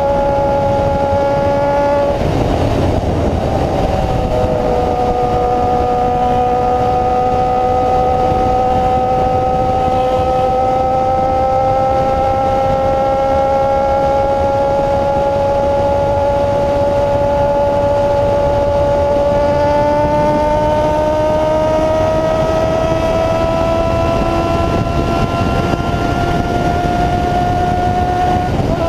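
Honda CB-1 400 inline-four with an open free-flow exhaust, running under way with its pitch climbing slowly as it gains speed. The pitch breaks and drops briefly about two seconds in and again near the end, as at an upshift.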